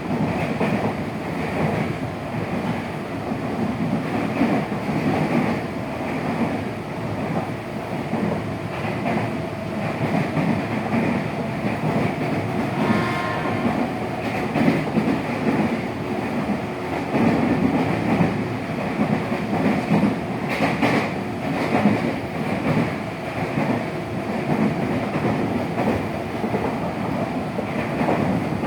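Running noise of an ex-Tokyo Metro 6000 series electric train with Hitachi/Mitsubishi chopper control on the move: a steady rumble of wheels on rail and traction gear. About halfway through there is a brief higher tone.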